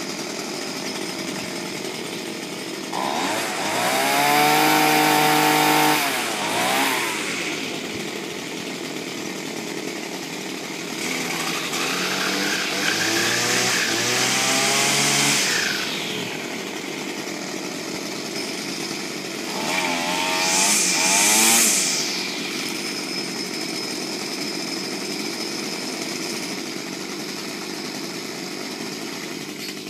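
Small two-stroke string trimmer engine running, revved up three times and dropping back to idle between.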